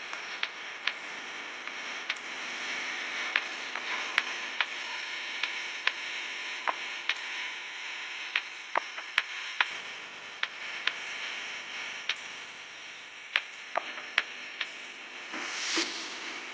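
Eating sounds: sharp, irregular clicks and taps, about one or two a second, over a steady hiss, with a brief louder rustle near the end.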